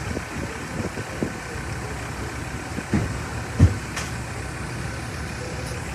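Busy street traffic: a steady rumble of cars and trucks running and idling, with two short low thumps a little past the middle.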